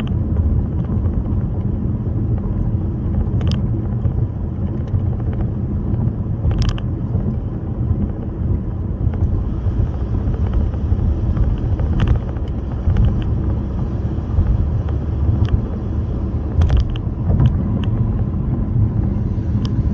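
Steady low rumble of a car on the move, with a few brief faint clicks.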